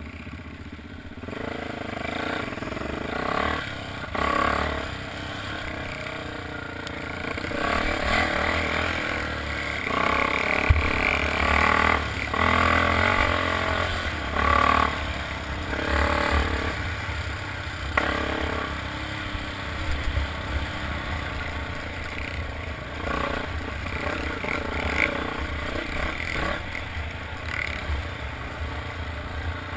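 Motocross motorcycle engines revving up and down as bikes ride past, louder through the middle stretch.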